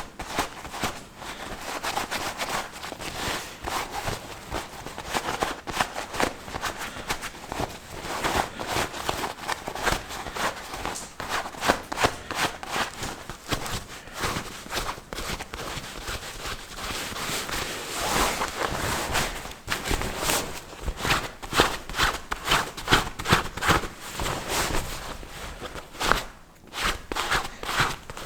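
Footsteps in snow at a steady walking pace, a run of short crunching steps.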